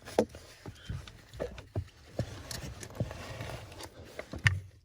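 Footsteps walking, a string of about ten knocks spaced roughly two a second, uneven.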